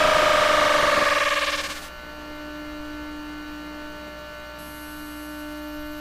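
Toyo Denki GTO-VVVF inverter noise of a Chiba New Town Railway 9100 series train, picked up through an AM radio: a loud hiss with several tones sliding down in pitch as the train slows. About a second and a half in it dies away, leaving a steady electrical hum of several fixed tones.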